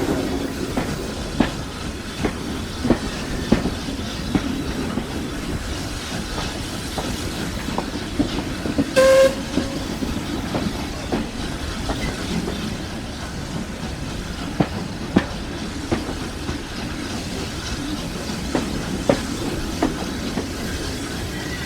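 Steam-hauled train rolling along, with steady running noise and sharp clicks of the wheels over rail joints every second or two. Nine seconds in, the locomotive whistle gives one short toot.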